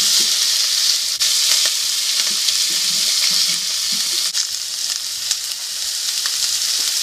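Diced chicken thigh sizzling in hot oil in a nonstick frying pan as it is stirred and turned with wooden cooking chopsticks: a steady frying hiss with a few faint clicks.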